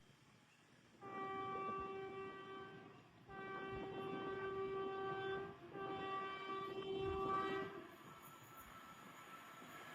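Indian Railways train horn sounding three long blasts of about two seconds each, a steady single pitch with short gaps between them.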